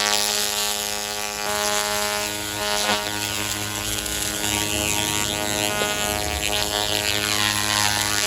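Fiber laser cleaning machine running: a steady buzzing hum with many overtones under a hiss.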